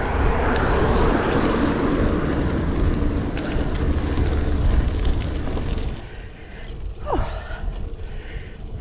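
A car coming up from behind and overtaking the bicycles, its engine and tyre noise over wind rumble on the helmet camera's microphone, dropping away about six seconds in.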